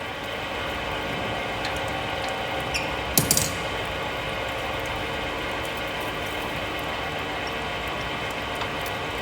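Metal lathe running steadily while turning a steel pin, with a short clatter of sharp clicks about three seconds in.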